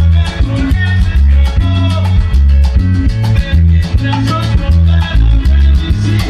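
Salsa music from a dance orchestra: a prominent bass line moving under steady, evenly spaced percussion and sustained instrument parts.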